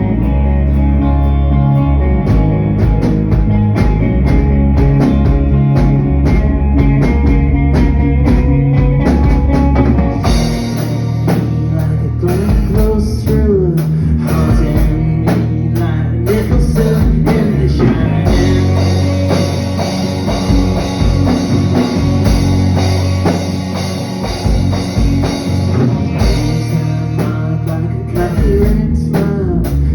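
A live band playing a blues-rock song with guitars and drum kit. The sound becomes fuller and brighter about ten seconds in.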